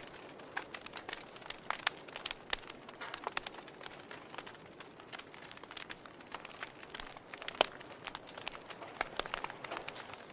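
Campfire crackling: irregular sharp pops and snaps over a soft hiss, with one louder pop about seven and a half seconds in.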